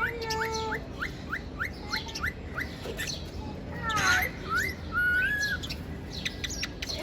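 Male cockatiels calling while squabbling: a quick run of short chirps, about three a second, then harsher squawky calls and a short whistled note.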